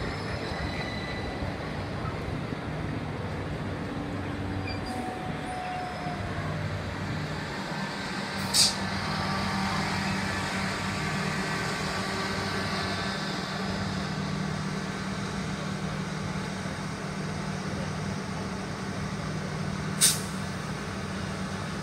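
Southeastern electric multiple-unit trains moving slowly through a station, with a steady rumble and electric motor hum. Two short, sharp hisses of air cut in, about eight seconds in and again near the end.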